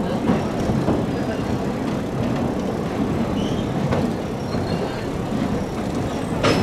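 Passenger train carriage running on the track, a steady rumble heard through an open carriage window, with a couple of sharp clacks from the wheels and running gear.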